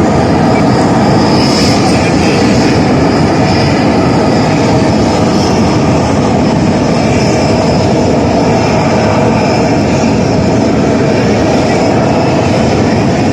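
Aircraft engine noise, loud and steady, with no clear rise or fall.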